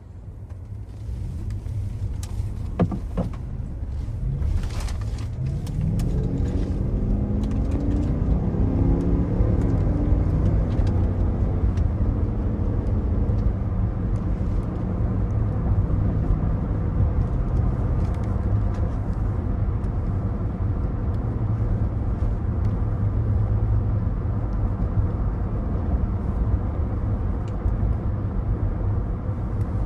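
2024 Cadillac Escalade ESV's 6.2-litre V8 accelerating, its note climbing in steps as the ten-speed automatic shifts up, then settling into a steady cruise over a low road rumble. A few sharp clicks come early, before the engine note rises.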